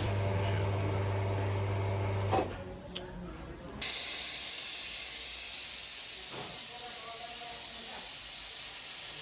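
Coffee machine humming steadily for about two seconds, then a jet of steam opens suddenly and hisses steadily for the rest of the time, as from an espresso machine's steam wand.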